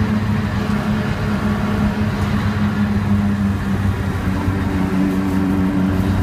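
BMW E36 328i's straight-six engine running, heard from inside the race car's cabin over a steady haze of road noise; the engine note changes about four seconds in, a higher tone joining the steady one.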